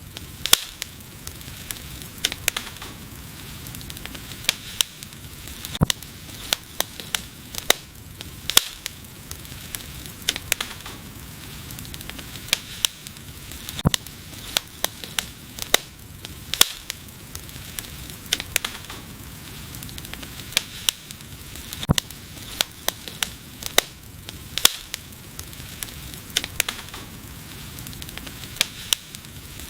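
Wood fire crackling: irregular sharp pops and snaps, often several a second, over a steady hiss of the burning.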